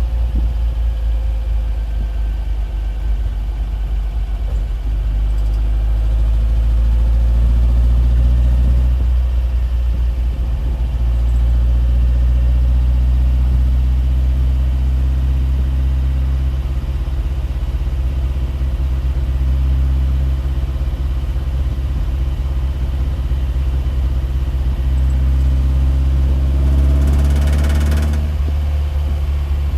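A steady low mechanical drone, like a running engine, with a brief rising sweep about 27 seconds in.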